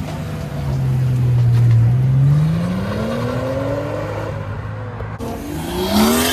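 Car engine accelerating hard as it pulls away, its note holding low and then climbing steadily before fading. About five seconds in, after an abrupt cut, another car's engine comes in loud, its note rising as it accelerates.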